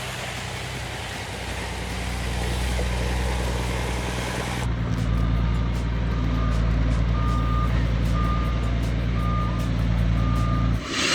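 Sterling dump truck's diesel engine running, growing louder about halfway in as its reversing beeper starts sounding repeated short beeps while it backs up. Near the end the engine note cuts out and a hiss begins.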